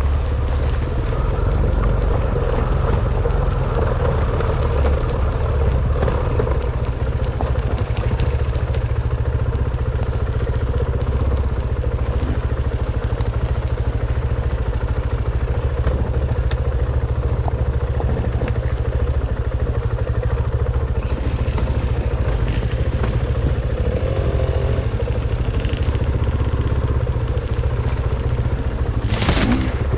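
Dirt bike engine running steadily while riding a trail, with scattered rattles and knocks from the bike over rough ground.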